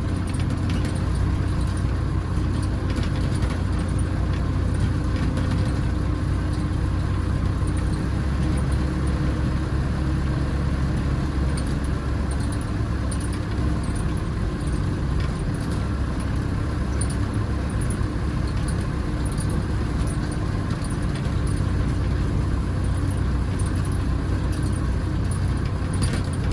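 Massey Ferguson backhoe tractor's engine running steadily at a constant speed.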